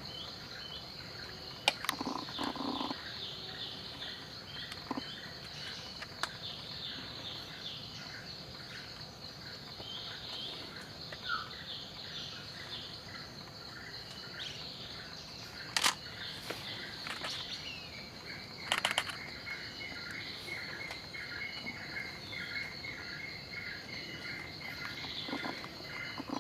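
Forest ambience: a steady high insect drone with many short chirping notes repeating throughout, and a few sharp clicks.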